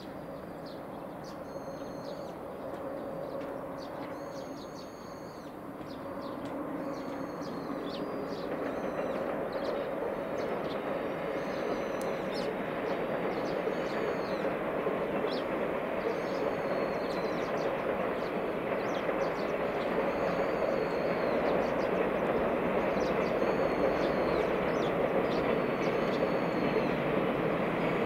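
EF210 electric locomotive hauling a container freight train, a steady rolling rumble of wheels on rail that grows louder throughout. Small birds chirp repeatedly over it.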